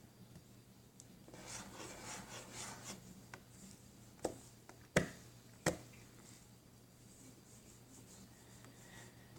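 Objects being handled: a couple of seconds of rustling and rubbing, then three sharp clicks about two-thirds of a second apart, the middle one loudest.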